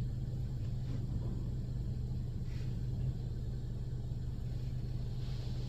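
Steady low hum and rumble heard inside a car's cabin as it goes through a touchless automatic car wash. A hiss of spray on the car rises near the end.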